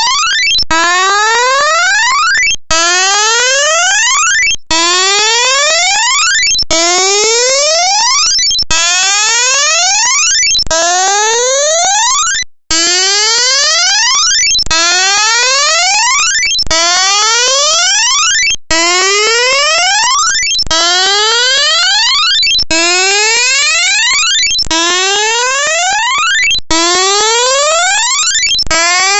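Loud electronic tone sweeping upward in pitch, restarting about every two seconds in an unbroken alarm-like loop, with one brief gap about halfway through.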